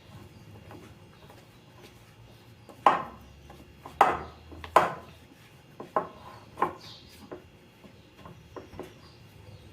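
A spoon stirring a thick, sticky bread dough in a bowl, scraping and knocking against the bowl. Several sharp knocks come between about three and seven seconds in.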